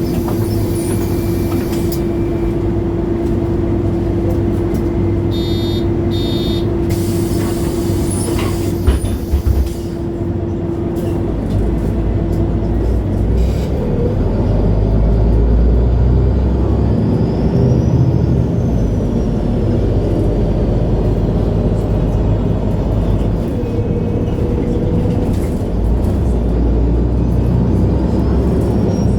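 Interior sound of a 2011 MAN A23 Lion's City G articulated bus on the move, its six-cylinder diesel engine running. There is a brief knock about nine seconds in. Later the engine pulls harder, with a faint whine rising and falling.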